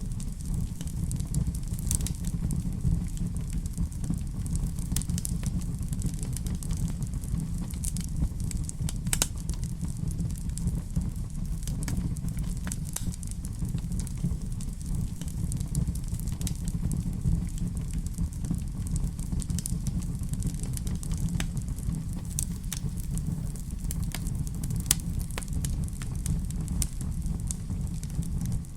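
Fireplace fire crackling: a steady low rumble of the flames with irregular sharp pops and snaps scattered throughout.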